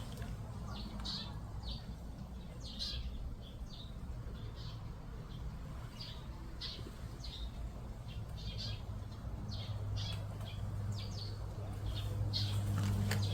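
Small birds chirping: many short, high calls a fraction of a second apart, over a steady low hum.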